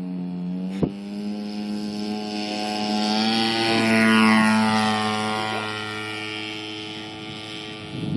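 ESM P-51 Mustang RC model's DLE-30 single-cylinder two-stroke gas engine, with a Keleo exhaust, flying past. The engine note grows louder to a peak about four seconds in, drops in pitch as the plane goes by, then fades. A short click comes just under a second in.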